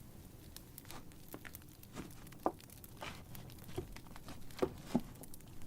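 Wood fire crackling in a fireplace: scattered small crackles with a few louder pops.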